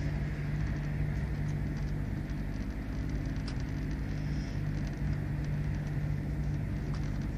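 Passenger train running at speed, heard from inside the carriage: a steady low rumble with a constant hum and a faint click about three and a half seconds in.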